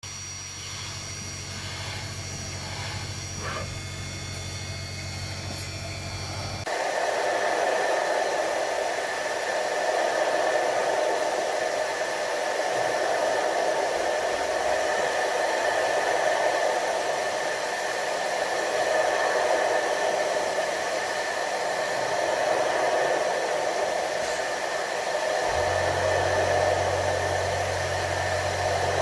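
Milling machine running steadily while machining an acrylic plate. It gets louder and steadier about seven seconds in, with a thin whine on top, and a low hum runs under it at the start and again near the end.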